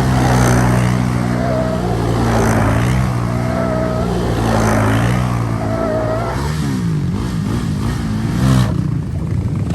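ATV engine running at idle, then revved up and down a few times about two-thirds of the way through. A short faint squeak repeats about every second and a half over the idle.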